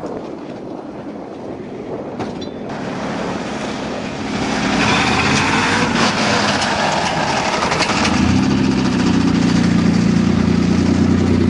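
Ford truck engine running and being revved on its first start of the season, growing louder about four seconds in and again, deeper and stronger, about eight seconds in.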